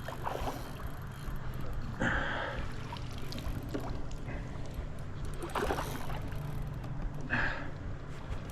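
Water lapping and sloshing around a kayak, with three short splashes, about two seconds in, near six seconds and near the end.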